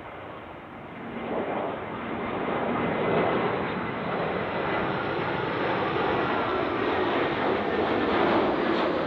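Jet airliner on short final, its engine noise swelling about a second in and staying loud as it approaches, with a faint high whine on top.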